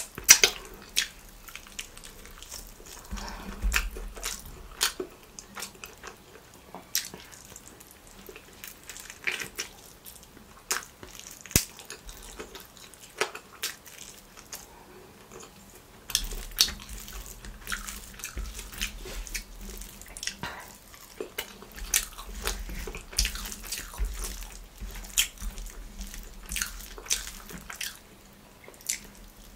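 Close-miked eating sounds: wet chewing, lip smacks and mouth clicks as a person eats spicy chicken leg and parotta with her hands. Sharp irregular clicks run throughout.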